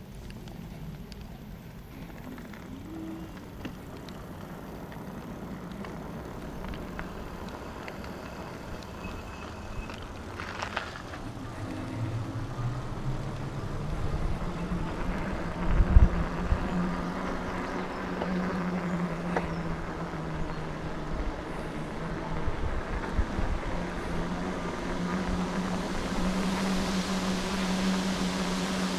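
Riding noise from an e-bike, with a steady low hum that builds and gets louder through the second half, and a single knock about two thirds of the way in.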